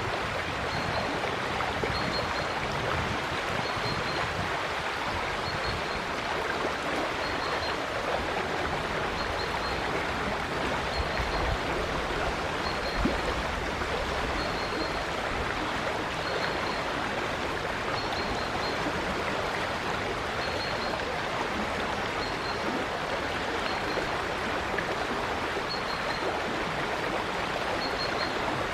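River water flowing steadily over stones, a continuous rushing and babbling. A bird chirps faintly above it, short high notes repeating every second or two.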